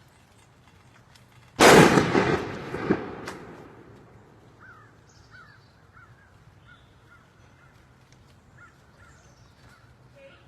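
Overinflated basketball bursting under pump pressure: one sudden loud bang about one and a half seconds in, followed by a noisy rush that fades over about two seconds, with a second sharp crack a little over a second after the bang.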